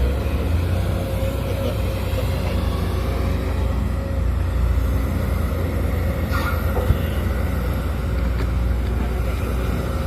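Sumitomo SH210 hydraulic excavator's diesel engine running steadily, with one short sharp knock about seven seconds in.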